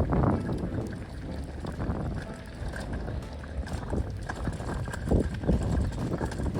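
Campfire burning, with irregular knocks and crackles over a low rumble.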